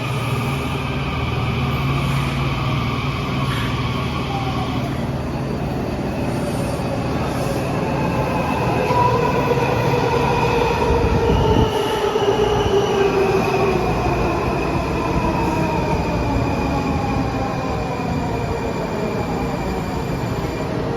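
Washington Metro train passing through the station: the motors' whine falls steadily in pitch as it slows, over steady wheel and rail rumble.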